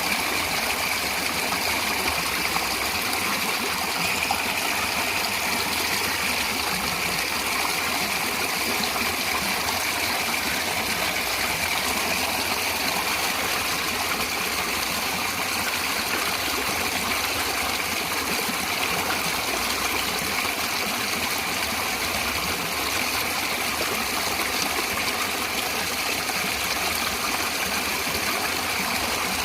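Natural stream water flowing and splashing.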